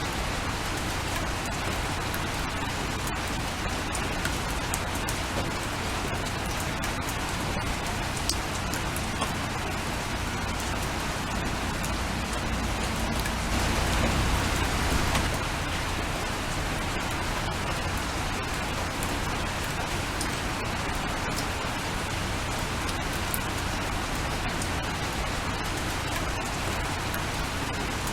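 Steady rain falling, with scattered sharp ticks of individual drops striking a surface. It swells louder for a couple of seconds about halfway through, then settles back.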